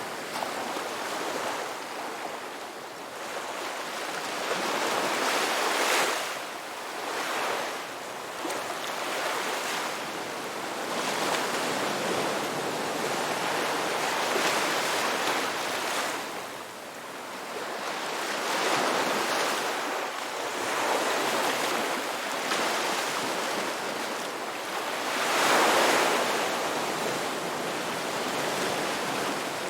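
Ocean waves breaking and washing on a shore: a steady hiss of surf that swells and falls, with bigger waves cresting about every ten seconds.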